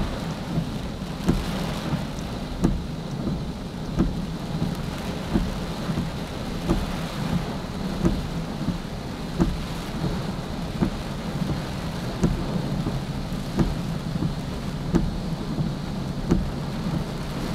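Steady heavy rush of water from a waterfall swollen by typhoon rain, with a short knock repeating about every second and a half.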